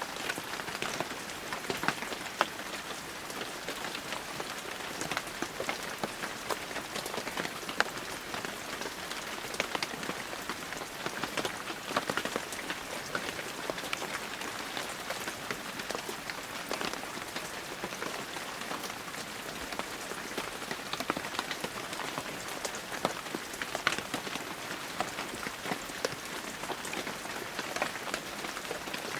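Heavy rain falling steadily, a dense hiss with many sharp individual drops hitting a surface.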